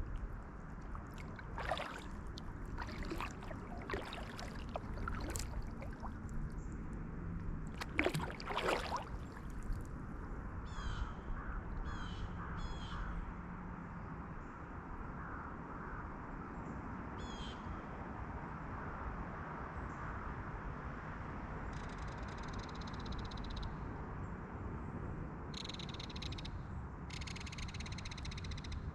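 Kayak paddle strokes dipping and splashing several times in the first nine seconds or so, over a steady low rush. Then a run of short repeated bird calls, with longer bouts of calling near the end.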